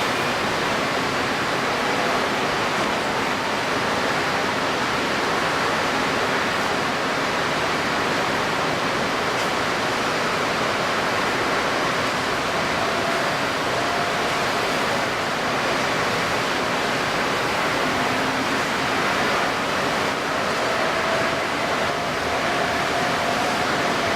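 Steady rushing noise of strong wind and wind-stirred water, even throughout. A faint thin tone drifts slightly upward in the second half.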